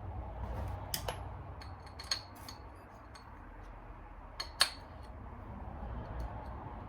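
Small metal engine parts clinking and tapping against each other as they are handled, in irregular sharp clicks, the loudest a little over halfway through, over a steady low hum.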